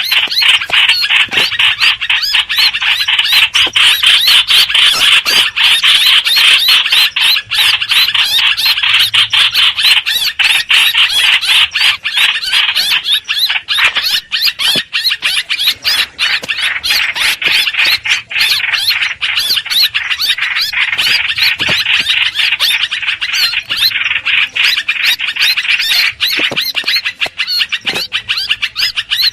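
Hoành hoạch bird calling continuously in a loud, rapid, squeaky chatter.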